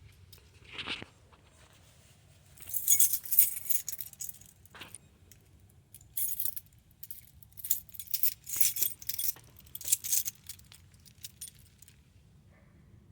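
Keys jangling in several bursts of metallic jingling, spread over about eight seconds, with a few single clicks in between.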